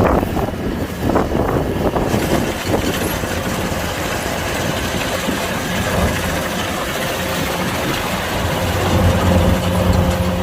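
Kubota DC-105X combine harvester's diesel engine running steadily with a constant low hum, with some rougher noisy bursts in the first few seconds.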